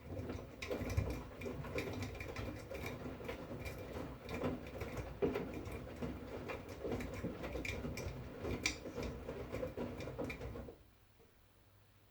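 V-Zug Unimatic SL washing machine's drum turning during a wash, the laundry and water tumbling with a busy clatter of small knocks and clicks. It stops suddenly about ten and a half seconds in, as the drum pauses between turns.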